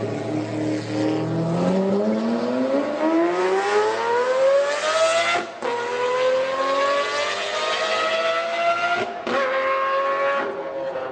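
Supercar engine accelerating hard through the gears: the pitch climbs steadily, cuts briefly for an upshift about five and a half seconds in, climbs again, and shifts once more about nine seconds in.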